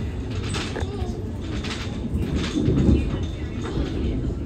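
Cabin running noise of a Bombardier-built Queensland Rail NGR electric multiple unit under way: a steady low rumble from the wheels on the track, with clicks and rattles, and a louder bump near three seconds in.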